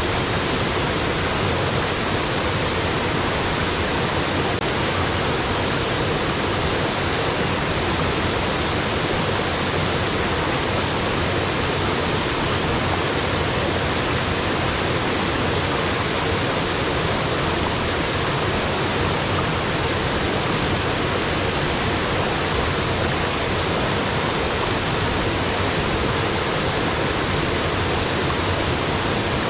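Waterfall pouring into a mountain stream: a steady, unbroken rush of falling water.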